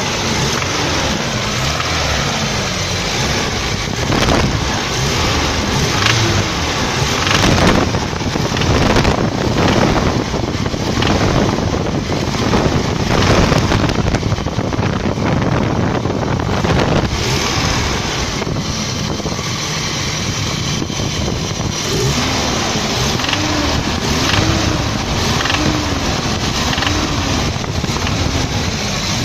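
Isuzu Rodeo TF pickup's engine running with a noise that the owner asks about as possible rod knock, though compression is good and it isn't running hot. In the later part a tone rises and falls over and over, about once a second.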